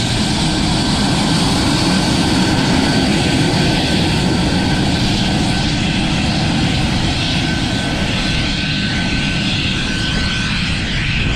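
Pratt & Whitney JT8D turbofans of a Boeing 737-200 Advanced running at taxi power close by: a loud, steady jet roar with a thin high whine that fades out near the end.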